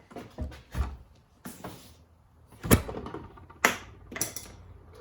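A handful of irregular clicks and knocks from handling and moving things, the sharpest knock about halfway through.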